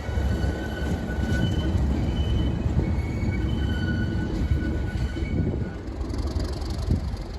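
English Electric Class 37 diesel locomotive working hard at speed, a heavy low rumble with faint high whining tones coming and going. It eases a little near the end.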